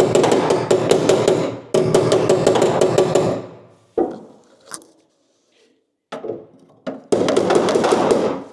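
Rapid machine hammering on sheet metal in three long runs, the first stopping about a second and a half in, the second running from about two to three seconds in, and the last near the end, with a few separate knocks in between.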